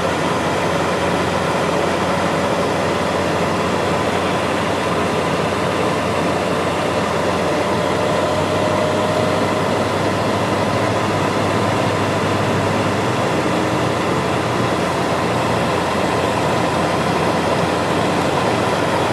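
Steady road and engine noise inside a moving vehicle's cabin, an even rumble and hiss with a faint hum.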